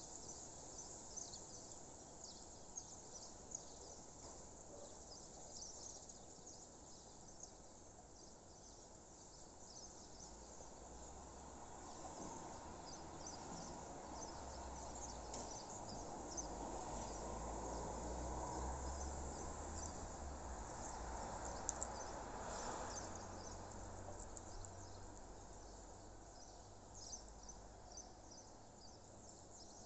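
Outdoor dawn soundscape of many small, high chirps from insects and birds. A low rumble swells through the middle and fades again.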